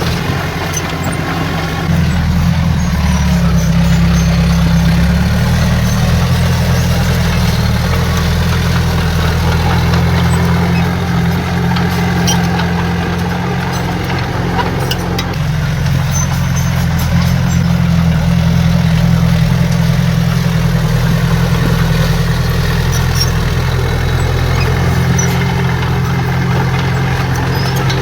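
Heavy diesel earthmoving machine running under varying load: a low, steady engine drone that grows louder about two seconds in and shifts in pitch several times.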